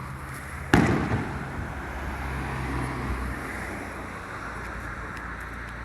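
A firework shell bursting overhead: one sharp, loud boom about a second in, followed by a rumble that dies away over a second or two.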